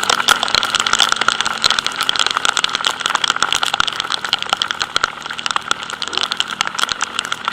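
Heavy raindrops striking a helmet-mounted action camera in dense, irregular clicks and crackles, over the steady hum of a scooter's engine.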